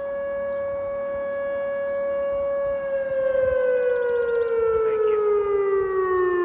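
Outdoor tornado warning siren sounding a steady tone, then winding down, its pitch falling slowly from about three seconds in.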